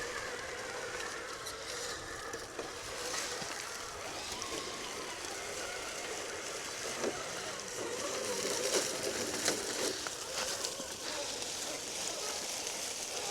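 Electric motors and gearboxes of mini RC crawler trucks whining, their pitch rising and falling with the throttle, with scattered clicks and crunches.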